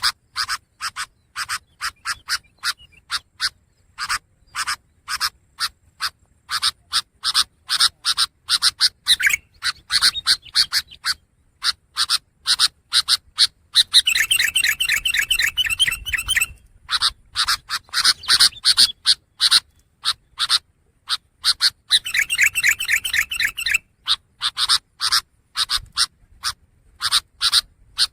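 Long-tailed shrike (pentet) singing: a fast, steady series of short, harsh chattering notes. A rapid trill comes about halfway through, and another a few seconds later.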